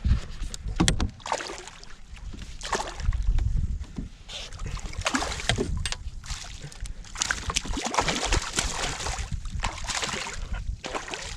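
Water splashing and sloshing in irregular bursts around a kayak as a hooked bass is fought to the boat, with a few sharp knocks near the start.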